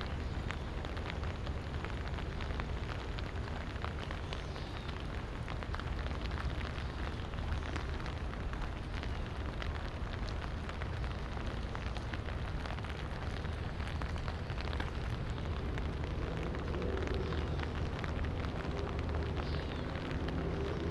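Light rain falling steadily, with many small drop ticks over a constant low rumble. A faint hum joins in near the end.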